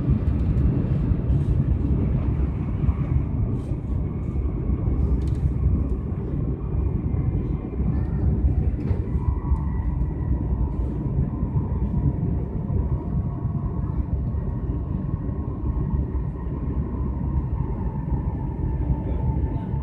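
Cabin noise of a high-speed train running at speed: a steady low rumble of wheels on rails. A faint steady whine joins it about halfway through.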